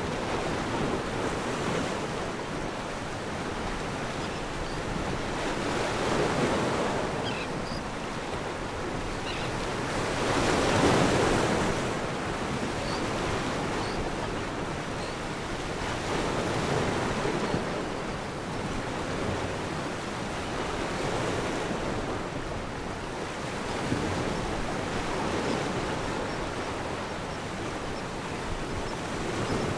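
Waves sound effect: surf breaking and washing back, swelling and easing every four to five seconds, the biggest swell about eleven seconds in.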